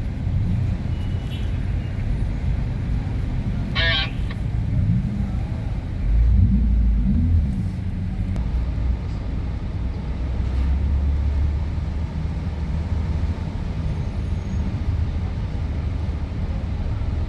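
Steady low rumble of vehicle engines idling and moving slowly in a ferry loading queue. About four seconds in there is a brief high wavering squeal, and soon after one engine rises and falls in pitch as a vehicle pulls past.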